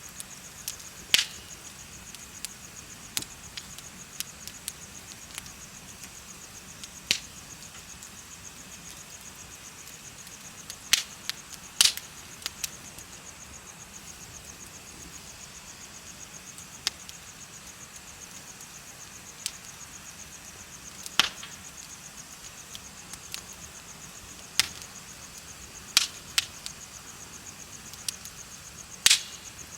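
Wood bonfire crackling, with sharp pops every few seconds, over the steady high trill of chirping crickets.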